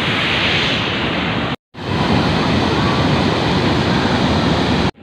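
Fast-flowing water rushing loudly and steadily, like a waterfall. The sound drops out for a moment about a second and a half in.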